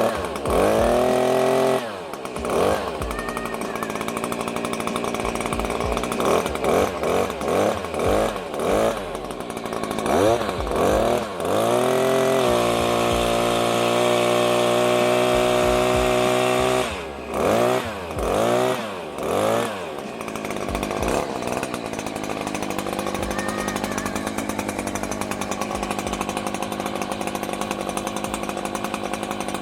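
Freshly rebuilt Stihl HS86R hedge trimmer's two-stroke engine running, revved up and back down repeatedly, held at high revs for about four seconds in the middle, then settling to a steady idle for the last third.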